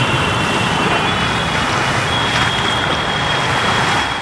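Floodwater rushing strongly across a road around a person standing waist-deep in it: a loud, steady rush.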